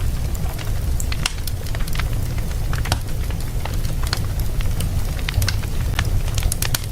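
Wood fire burning in a fireplace: many irregular sharp crackles and pops over a steady low rumble.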